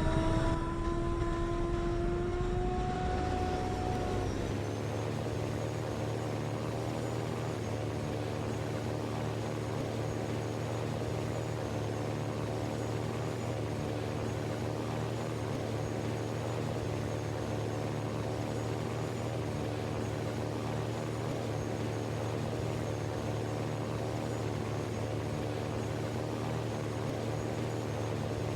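Steady mechanical drone of a running engine or motor. Its pitch rises over the first few seconds, then holds even.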